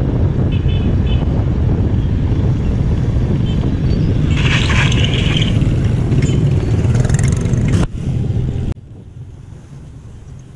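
Loud, steady low rumbling noise, with a brief higher scraping sound about four to five seconds in. The rumble drops off suddenly about eight seconds in, leaving a much quieter background.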